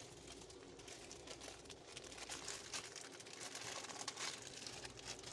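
Plastic noodle packaging being handled: irregular crinkling and rustling, busier in the second half.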